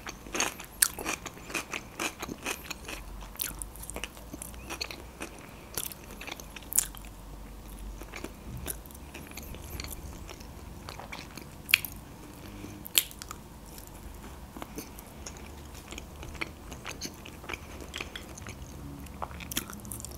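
A person chewing and biting food with the mouth: wet mouth clicks and crunches, thickest in the first few seconds and then more scattered, with a few louder clicks among them.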